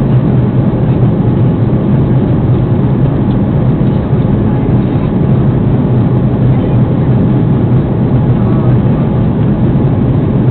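Steady low drone of the engines and airflow heard inside the passenger cabin of an Airbus A330 airliner, even and unchanging throughout.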